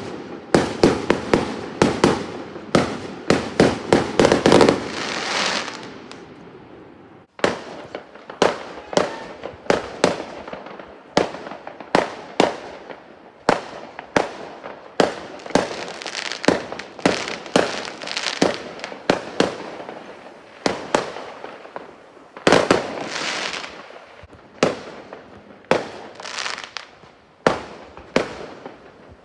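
Fireworks exploding: a rapid barrage of sharp bangs with crackling tails, easing off about five seconds in, then a steady run of separate bangs, about one or two a second, some trailing off in crackle.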